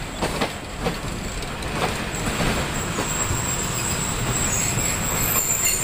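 Pakistan Railways passenger coaches rolling slowly past as the train pulls into the station, wheels clicking over rail joints over a steady rumble. From about two seconds in, a thin, steady high squeal from the train joins in.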